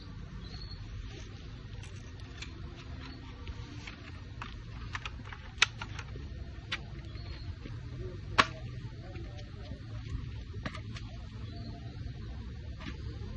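Airsoft gun fired in target practice: scattered light clicks, with two sharp louder shots about five and a half and eight and a half seconds in, over a low steady hum.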